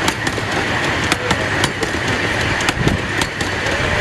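A 15-inch gauge live steam train rolling along the track, with a steady rumble and many sharp, irregular wheel clicks over the rail joints, several a second.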